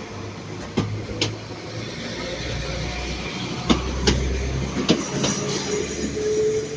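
A train rolling slowly through the station, its wheels clicking over rail joints in pairs, over a steady low rumble.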